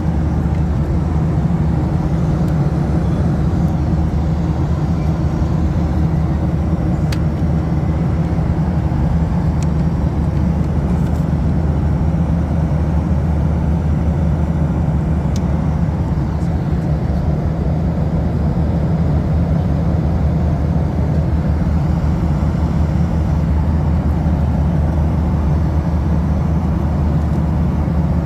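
Steady cabin drone of a Boeing 737-800 in flight: a deep, unchanging rumble of engines and airflow, with a couple of faint ticks.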